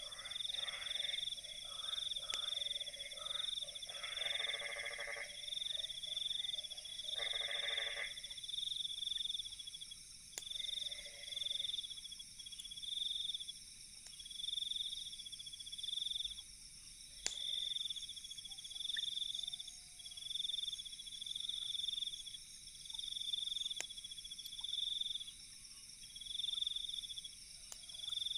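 Night insects trilling in short, evenly repeated bursts about once a second, with lower animal calls through the first several seconds. A few sharp, isolated crackles of a campfire come through now and then.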